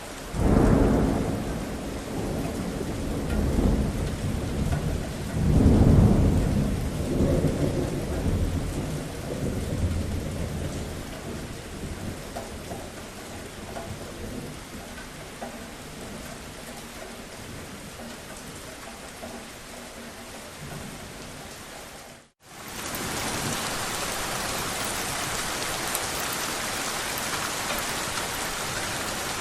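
Steady rain with rolling thunder. A low rumble breaks in about half a second in, swells again around six seconds and dies away over the next several seconds. Later the sound cuts out for an instant and the rain comes back as a brighter, even hiss.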